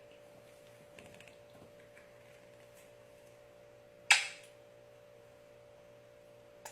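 One sudden, loud, sharp burst about four seconds in that dies away within half a second, over faint room tone with a steady low hum.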